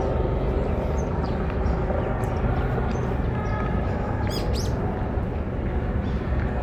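Small birds chirping in short high calls, with a quick run of them about four seconds in, over a steady low background rumble.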